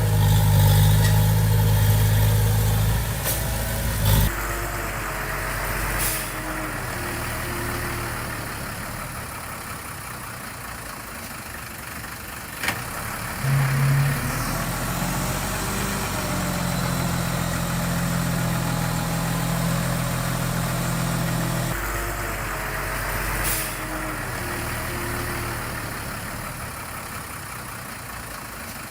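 Diesel engine of a Komatsu D20P bulldozer working, louder and deeper for the first few seconds and again through the middle, easing between, with a few sharp knocks.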